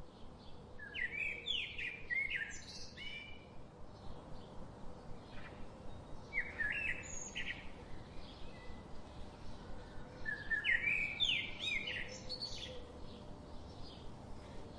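Songbirds chirping and singing in short, quick phrases that come in three bursts, with scattered chirps between, over a steady background hiss.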